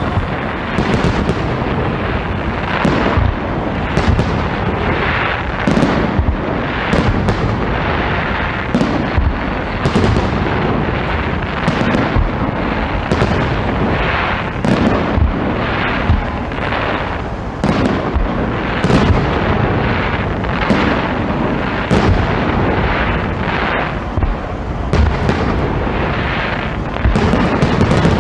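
Fireworks going off continuously, a dense barrage of sharp bangs and crackles, several a second, over an unbroken rumble.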